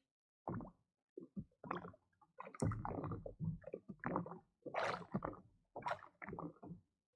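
Sea water sloshing and plopping against a kayak hull in irregular bursts.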